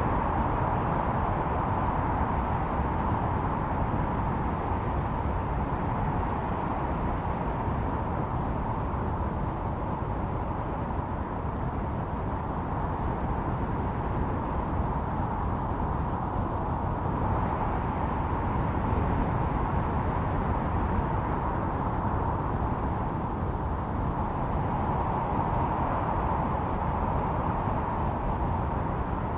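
Blizzard wind blowing steadily, with a deep rumble under a hollow howling tone that swells and eases a few times.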